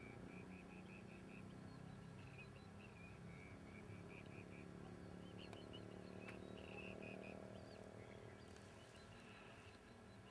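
Faint bird calls: quick series of short chirps repeating on and off, over a low steady hum.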